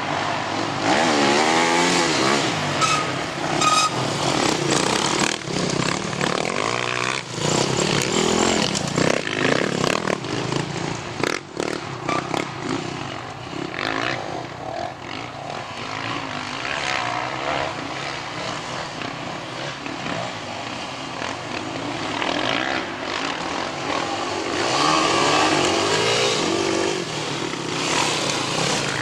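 Off-road motorcycle engines revving, their pitch repeatedly climbing and dropping. Louder near the start and again near the end.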